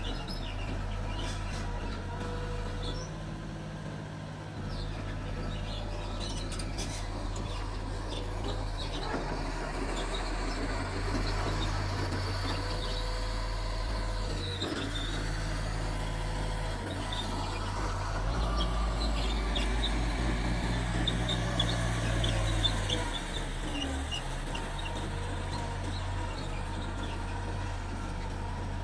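Mitsubishi bulldozer's diesel engine running steadily while the machine works, its note getting louder and heavier for a few seconds past the middle as it takes more load. Faint short high chirps come and go over the engine.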